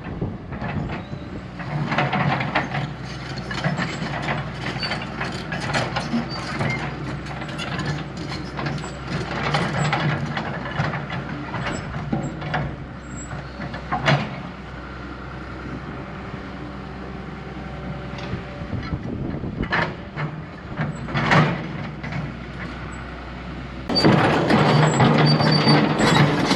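Heavy diesel earthmoving machine working: a steady engine hum broken by frequent metallic clanks and knocks, with a couple of sharper bangs. The sound grows louder about two seconds before the end.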